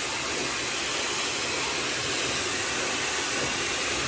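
Handheld hair dryer running steadily on its high fan setting with the heat on: an even rush of blowing air.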